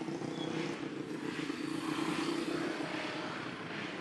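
A steady engine drone holding an even pitch, typical of motocross motorcycle engines running.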